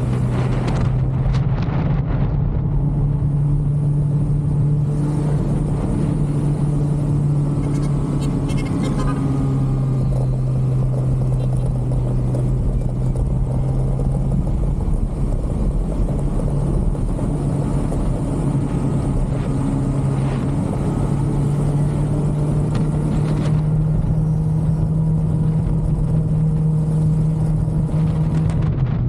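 2023 Kawasaki ZX-6R inline-four engine with its stock exhaust running steadily while riding, its pitch shifting slightly a few times as the revs change, over a rush of wind and road noise.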